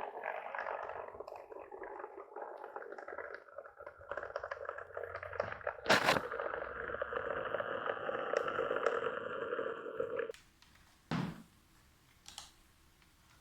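A small electric motor and gear train whirring steadily, with a sharp click about six seconds in. It cuts off abruptly about ten seconds in, followed by a couple of soft thumps.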